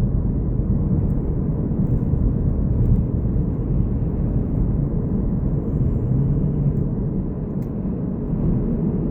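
Steady low rumble of a car on the move, tyre and engine noise heard from inside the cabin.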